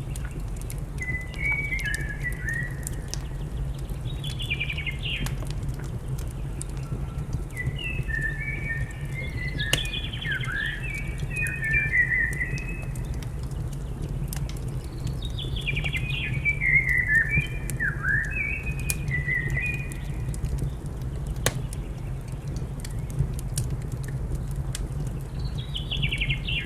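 A songbird sings short warbling phrases, four or five times, over a steady low rumble and scattered sharp crackles from a fireplace fire.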